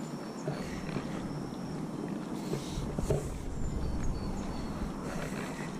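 Outdoor park ambience: a low rumble that swells through the middle and fades, with a few faint, short, high chirps and light ticks over a steady background hiss.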